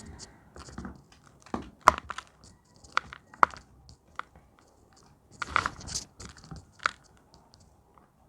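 Reformed gym chalk being crushed, with irregular sharp crunches and crumbling, the loudest cracks about two seconds in, around three seconds in, and a cluster near six seconds.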